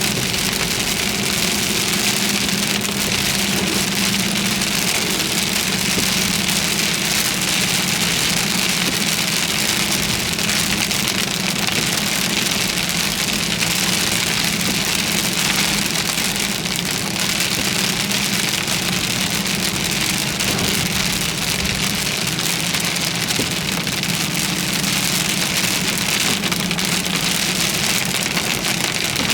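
Heavy rain pouring steadily onto a vehicle, a dense even hiss, under a steady low hum from the vehicle's engine and road noise.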